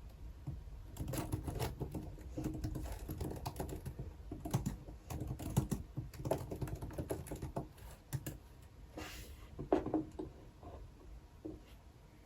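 Typing on a computer keyboard: a run of quick keystrokes that thins out to a few scattered taps over the last few seconds.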